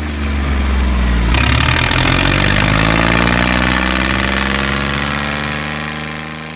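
Tractor engine running steadily, its pitch shifting briefly about a second or two in, then fading out near the end.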